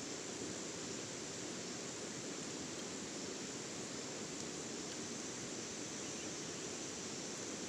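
Steady outdoor background noise: an even hiss with a brighter high-pitched band over it, unchanging throughout.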